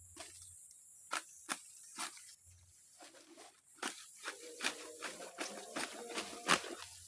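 A run of irregular sharp taps and knocks, sparse at first and coming thick and fast in the second half, with a short squeaky pitched sound among them, over a steady faint high hiss.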